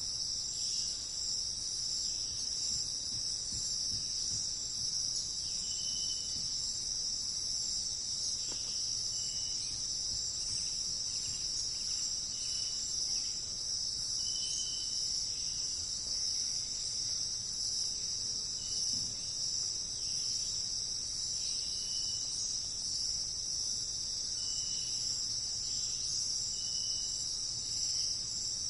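Dense, steady high-pitched insect chorus, like crickets shrilling, with short high notes sounding every couple of seconds over it.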